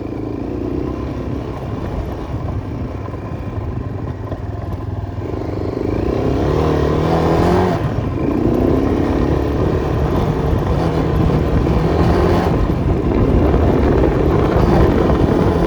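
Enduro motorcycle engine running under load through mud, its revs rising and falling; it gets louder about six seconds in and stays hard on the throttle.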